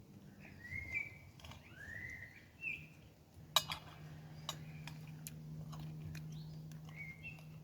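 Songbird chirps, a few short curved calls early on and again near the end, with a few sharp clicks around the middle over a faint steady low hum.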